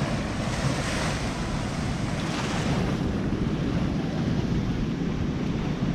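Sea surf washing and breaking, with wind buffeting the microphone; louder washes of surf come about one and two and a half seconds in.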